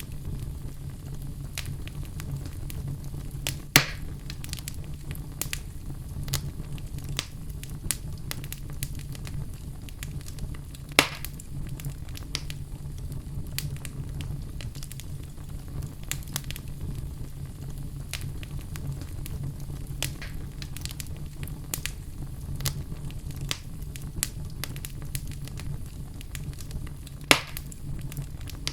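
Crackling fire: a steady low rumble with scattered sharp pops and snaps, three of them louder than the rest.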